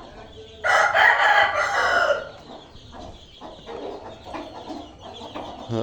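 A desi rooster crowing once, a loud call of about a second and a half starting just under a second in, with hens clucking faintly around it.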